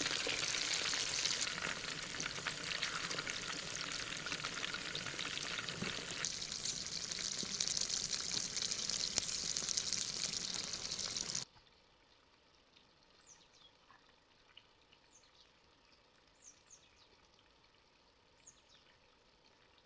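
Food sizzling and frying in a pan, a dense steady hiss that stops abruptly about eleven seconds in. Then it is quiet apart from a few faint, short, high chirps.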